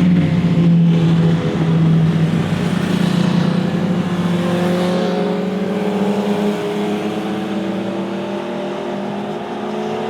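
Motorcycle engine running hard past the roadside, holding a steady note for the first half, then climbing steadily in pitch as it accelerates out of a corner.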